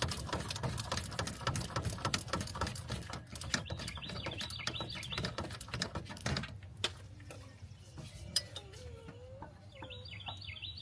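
Fast, dense clicking and rattling for about the first six seconds, then quieter bird calls: short high chirps and a lower, rising-and-falling cooing call.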